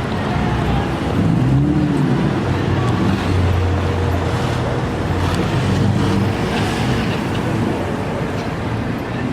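Road traffic with car engines running, a steady low engine drone under general traffic noise.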